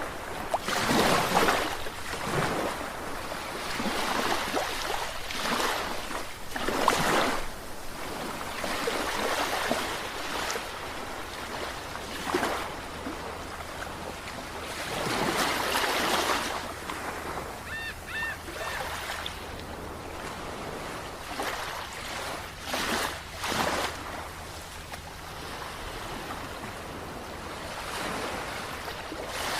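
Sea waves washing in and breaking in repeated surges that swell and fade every few seconds.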